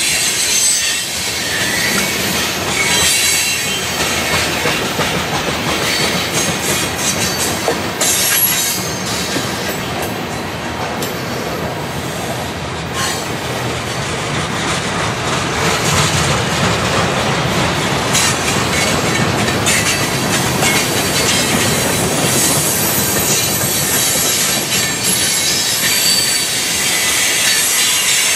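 Freight cars of a long mixed train (tank cars, boxcars, a centerbeam lumber car, covered hoppers) rolling past at close range: a steady rumble and clatter of steel wheels on the rails, with thin high-pitched wheel squeal here and there.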